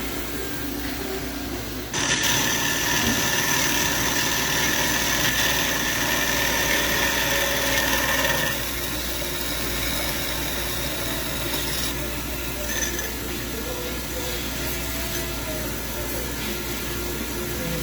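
Hyd-Mech H14A automatic horizontal band saw running with a steady machine hum. About two seconds in a much louder noise with several steady whining tones starts suddenly, then stops about six seconds later, leaving the quieter running sound.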